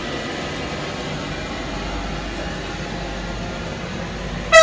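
A passenger train moving slowly past on the platform line, a steady hum and rumble of the train running. A loud horn blast starts right at the end.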